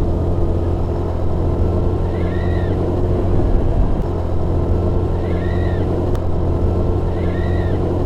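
A vehicle engine running steadily, with three short, high cries that rise and fall, about once every two and a half seconds.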